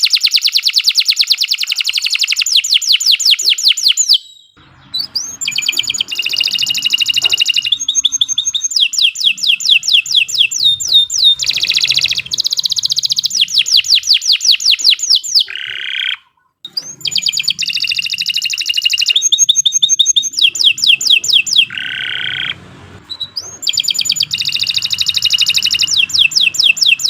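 Domestic canary singing a long, continuous song of fast trills, each made of rapidly repeated sweeping notes, changing from one phrase to the next. There are two short breaks, about four seconds in and about sixteen seconds in.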